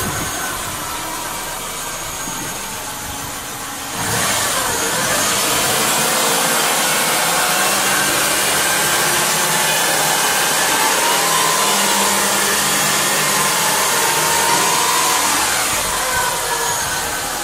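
Subaru Baja's flat-four engine running with the A/C compressor engaged. About four seconds in, the sound jumps suddenly louder with more hiss, then holds steady.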